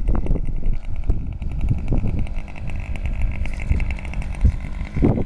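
RC model airplane engine running at low throttle, a steady high buzz, under heavy wind buffeting on the microphone.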